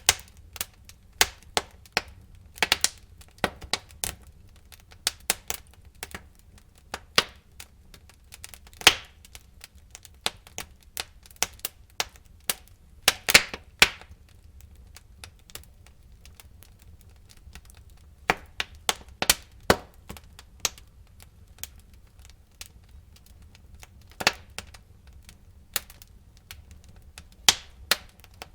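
Burning wood crackling in a fireplace: irregular sharp cracks and pops, some in quick clusters, over a faint low rumble of the fire.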